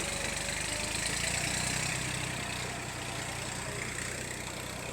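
Small tractor's engine running steadily while hauling a heavy load of fodder.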